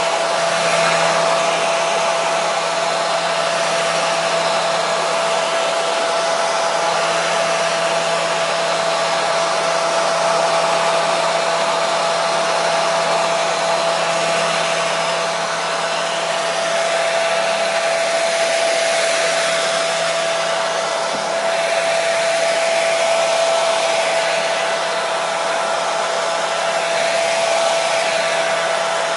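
Hair dryer running steadily: an even rush of air with a constant whine from the motor and fan.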